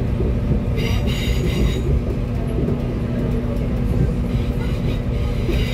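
Northern Ireland Railways diesel train heard from inside the carriage, running at speed: a steady rumble and hum, with two high ringing wheel squeals, about a second in and again near the end.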